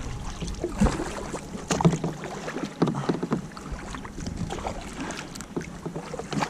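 Kayak paddle strokes dipping and splashing in the water, an irregular splash about once a second, over a light wash of moving water.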